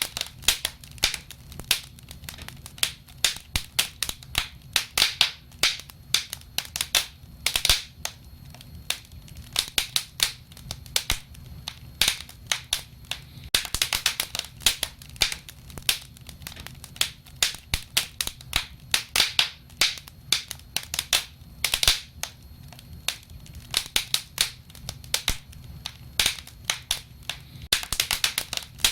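Wood fire burning, with frequent sharp crackles and pops at irregular intervals over a low, steady rumble.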